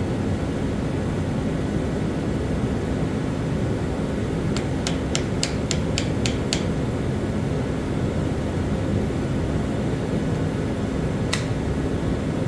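Trigger of a dead Milwaukee cordless drill clicking about eight times in quick succession midway, then once more near the end, with no motor running: the drill gets no power. A steady low hum runs underneath.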